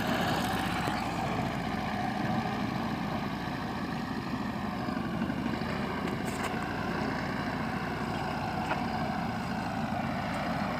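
Homemade all-terrain vehicle's Ural flat-twin motorcycle engine running steadily, its pitch wavering slightly.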